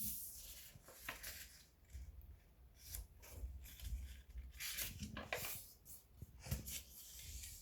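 A sheet of paper being folded and creased by hand: faint, irregular rustling and crinkling strokes, a few louder ones in the second half.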